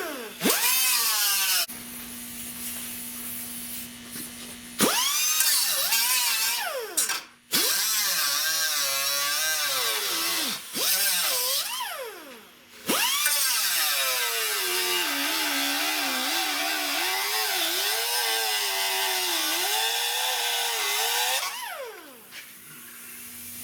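Cut-off wheel cutting into the rusted sheet-metal windshield pillar of a 1979 Buick Electra, taking it off in small sections. It runs in about five short bursts, spinning up at the start of each, its whine dipping and wavering as the wheel bites. The last and longest cut ends about a second before the end with the tool winding down.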